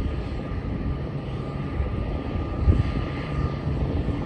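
Airliner jet engines running at an airport: a steady rumble with a faint, steady high whine.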